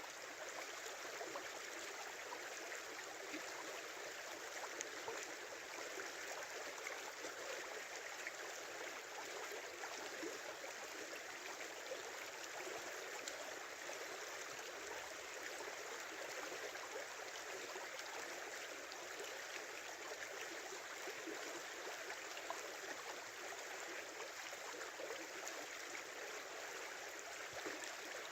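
A small river flowing steadily, a continuous babbling rush of water that never rises or falls.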